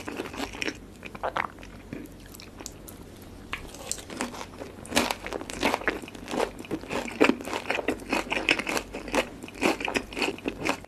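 Close-up chewing of crispy sauced fried chicken: wet crunches and crackles. They thin out for a couple of seconds about a second in, then come thick and fast from about four seconds on.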